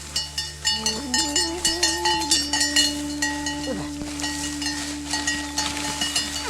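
Small bells on a herd of goats and sheep clinking irregularly as the animals move, with a brief animal call about four seconds in, over a long held note of background music.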